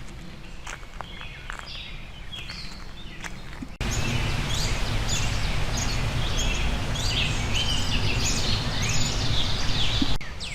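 Wild birds chirping and singing in short repeated notes over outdoor background noise. About four seconds in, the background noise jumps abruptly louder and stays steady.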